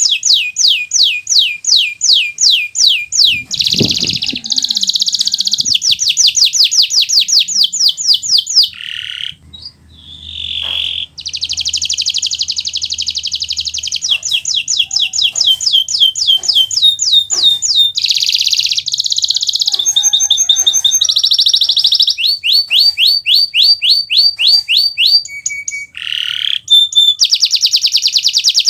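Kenari Nusantara domestic canary in full song: fast trills of quickly repeated sweeping notes and buzzy rolls, switching from one phrase to the next, with a brief pause about nine seconds in.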